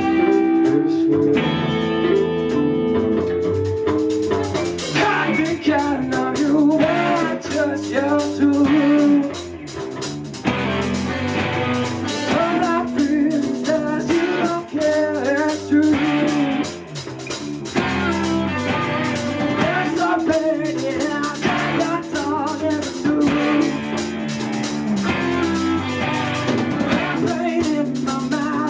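Rock band playing live: electric guitar opens alone, then drums and the full band come in after a few seconds, with a singer's voice over it.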